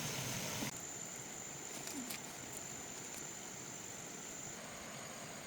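Insect trilling steadily on one thin, high, unbroken tone over a faint outdoor hiss, with a couple of faint ticks about two seconds in.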